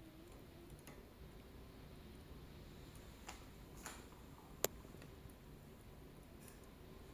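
Wood fire in a fireplace burning quietly: a low steady rustle with a few sharp crackles, the loudest a little past halfway.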